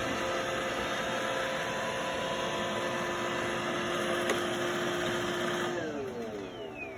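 iRobot Roomba i4 robot vacuum running with a steady motor whir and whine, then its motors winding down with falling pitch about six seconds in.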